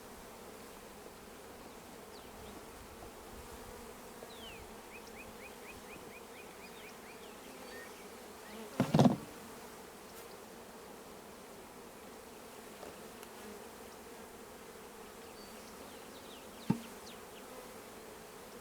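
Honeybees humming steadily around an open hive during a nuc transfer, the colony stirred up by smoke. A brief loud knock comes about nine seconds in and a sharp click near the end.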